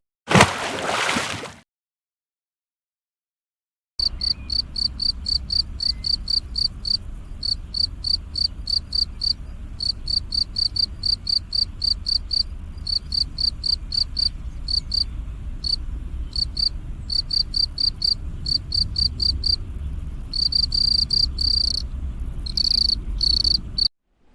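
Cricket chirping in a steady rhythm of short, high, single-pitched chirps, about three a second, with a few longer trills near the end, over a low background rumble. The chirping begins about four seconds in, after a brief burst of noise and a short silence.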